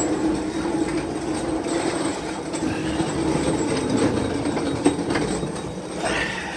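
A steady mechanical rumble with a droning hum, fading away just after the end.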